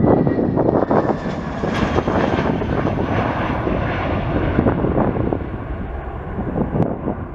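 Jet airliner's engines roaring loudly as it passes, with a crackling rasp through the roar, fading off over the last couple of seconds.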